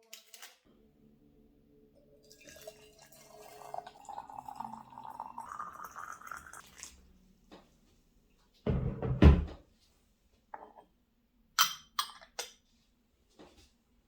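Water pouring into a pot, its pitch rising steadily as the pot fills. Then a heavy thunk, the loudest sound, about nine seconds in, and three sharp clicks near the end.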